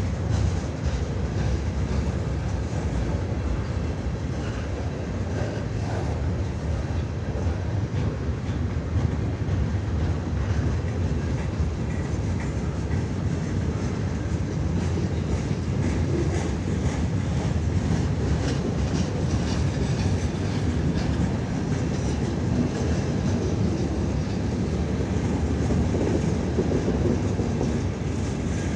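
A CN freight train rolling steadily past: a continuous rumble of wheels on rail with a clatter over the joints. There is no horn.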